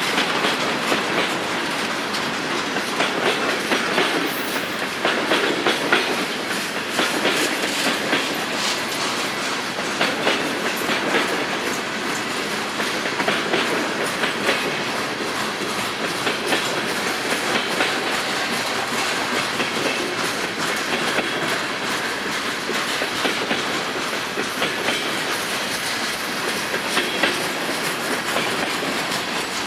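Freight train cars rolling past at speed: a steady rumble with a constant stream of wheel clicks, no horn.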